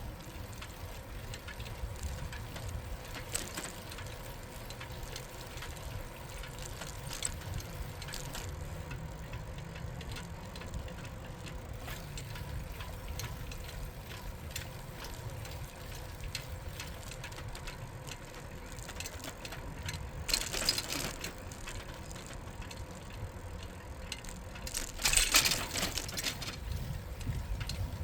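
A bicycle ridden along a paved bike path: a steady low rumble of tyres and air past the microphone, with faint scattered ticking from the bike's mechanism. Two louder brief rushes of noise come about 20 and 25 seconds in.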